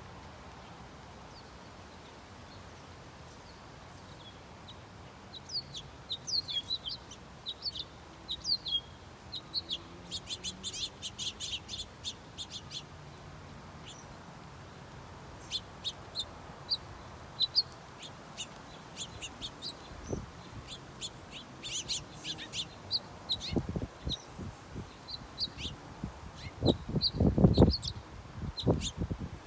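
Small songbirds chirping in short high calls, twice breaking into a quick run of repeated notes. Near the end come several dull low thumps, the loudest sounds here.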